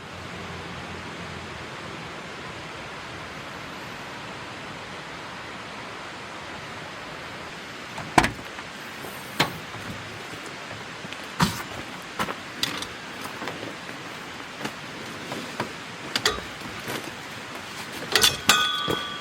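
A steady hiss, then from about eight seconds in a scatter of sharp clicks and knocks, with a short metallic ring among a cluster of knocks near the end.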